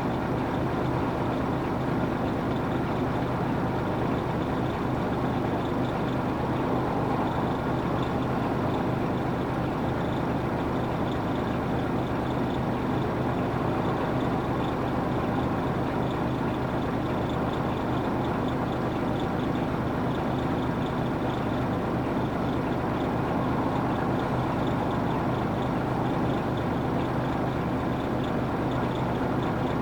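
Nissan Diesel UA440 city bus's PF6 diesel engine running steadily, heard from inside the passenger cabin.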